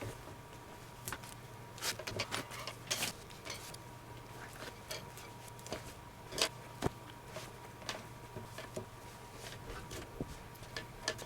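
Irregular small clicks, taps and rustles from hands working on a leather baseball glove during relacing, over a faint steady hum.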